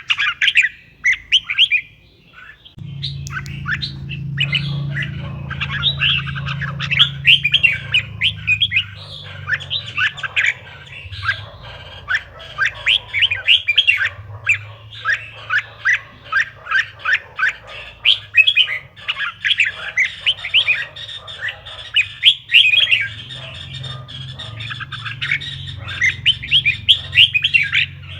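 Red-whiskered bulbul singing: a fast, continuous run of short chirping notes, the kind of song played to trigger caged bulbuls to sing. A steady low hum sits underneath from about three seconds in.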